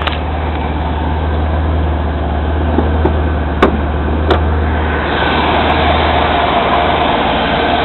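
1993 Ford Thunderbird engine idling steadily, with two sharp clicks about three and a half and four seconds in.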